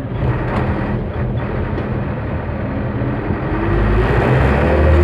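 Truck's diesel engine running under way, then rising in pitch and getting louder about three and a half seconds in as it accelerates.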